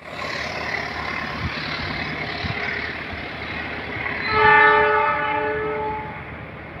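Train running past with a steady rush of noise and a few thumps of wheels over the rails, then the locomotive's horn sounds about four seconds in, a loud steady blast of roughly a second and a half that is the loudest part.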